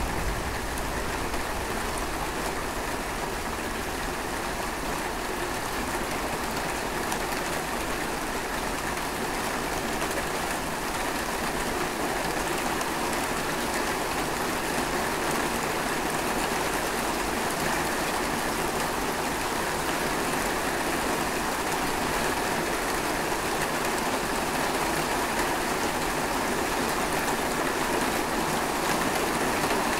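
Steady rain falling: an even, dense hiss of raindrops with no thunder, growing slightly louder over the stretch.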